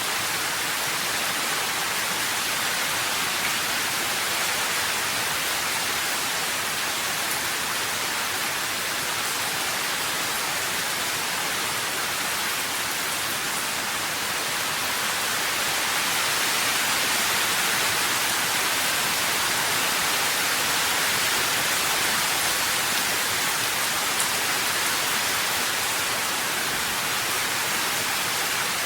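Steady heavy rain, a dense even hiss of falling water with no distinct drops standing out, swelling slightly about halfway through.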